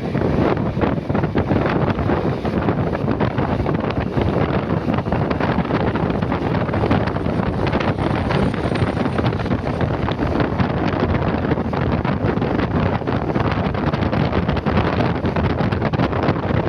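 Wind rushing and buffeting over the microphone of a moving motorcycle, with vehicle noise underneath, steady throughout.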